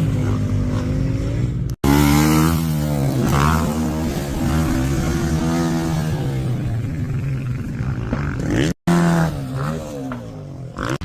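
Motor vehicle engine revving, its pitch rising and falling, in pieces broken by two abrupt cuts, about two seconds in and near nine seconds.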